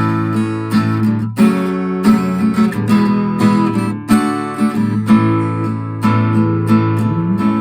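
Acoustic guitar strummed in steady chords, the instrumental intro before the singing comes in.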